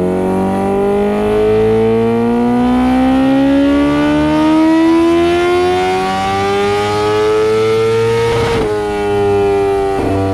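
Kawasaki Ninja H2R's supercharged inline-four running hard on a dynamometer, its loud engine note climbing steadily in pitch for about eight seconds. Near the end it breaks briefly, drops slightly in pitch and holds steady.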